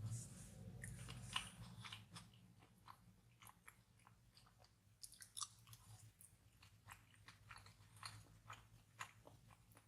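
Faint close-up chewing of chewy Korean rice cakes (tteokbokki): irregular small wet mouth clicks and smacks, a little louder in the first couple of seconds, over a faint steady low hum.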